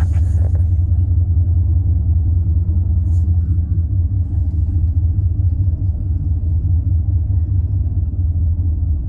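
A car on the move: a steady, loud low rumble of engine and road noise.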